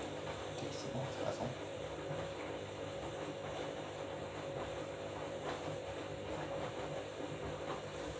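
Washing machine running through a wash of bed linen: a steady motor hum with faint, irregular clicks and swishes from the drum.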